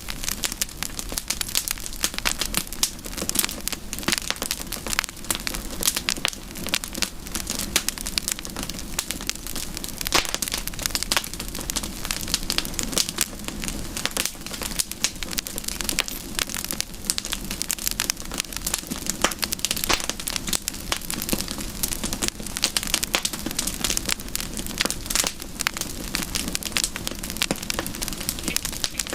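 Campfire crackling steadily: a dense run of sharp pops and snaps from burning wood over a steady low rush.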